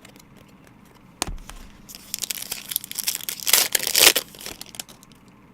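A trading card pack's wrapper being torn open and crinkled, with a sharp click about a second in and crackling for about two seconds, loudest near the end.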